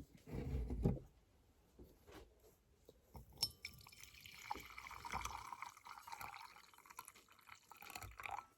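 A few low knocks from handling, then liquid pouring steadily into a container from about three and a half seconds in until just before the end.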